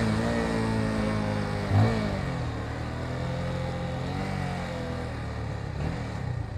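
Motorcycle engine heard while riding: revs falling off, a brief throttle blip a little under two seconds in, then a steady cruise that drops away near the end.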